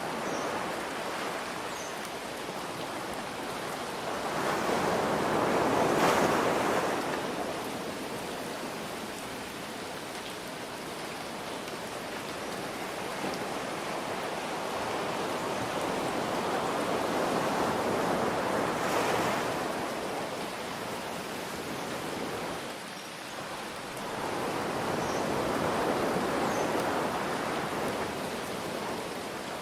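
Ocean waves surging in and washing back over a steady hiss of rain. Three slow swells of surf come in turn, the loudest about six seconds in.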